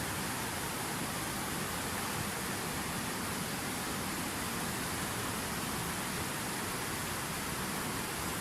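Water pouring steadily over a fountain waterfall: an even, unbroken rushing noise.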